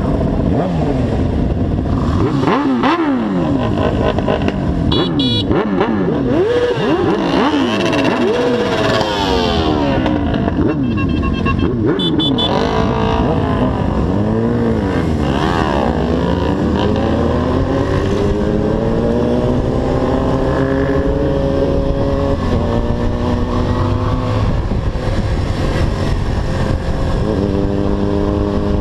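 Motorcycle engine under way, its pitch sweeping up and dropping back again and again as it is revved and shifted through the gears, then climbing more steadily with a few sudden drops at gear changes.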